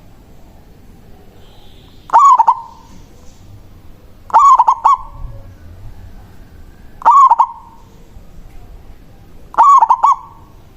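Zebra dove (perkutut) cooing: four short coo phrases, each a quick run of two or three notes, spaced about two to three seconds apart.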